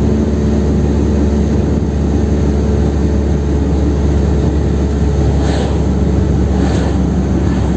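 Steady in-cabin drone of a Chevrolet Kadett 1.8's naturally aspirated four-cylinder engine at highway cruise, mixed with heavy road and wind noise.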